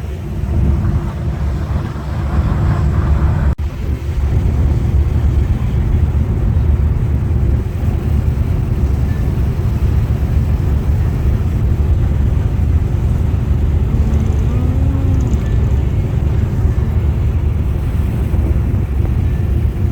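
Boat engine running with a steady low drone, with wind buffeting the microphone. It breaks off for an instant about three and a half seconds in, then carries on.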